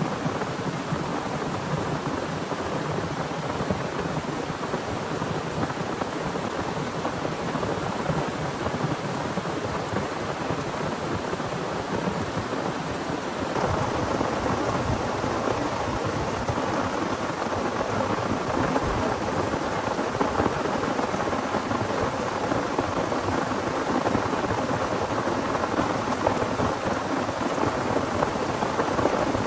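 Heavy rain falling steadily, growing louder about halfway through.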